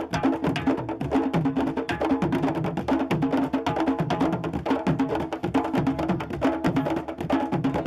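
Candombe drumming: a group of hand-and-stick drums played together in a steady, driving rhythm, with sharp wooden stick clacks over pitched drum tones.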